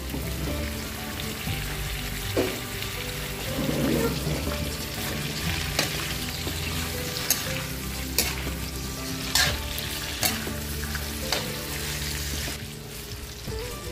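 Slices of pan-fried beef sizzling in hot oil with garlic in a wok, turned with a metal spatula that clicks and scrapes against the pan now and then.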